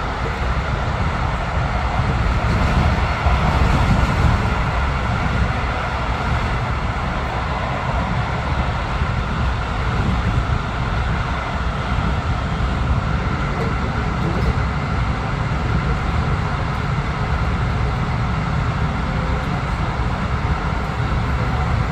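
Passenger train running steadily along the track: an even, continuous rolling noise of wheels on rails, mostly low in pitch.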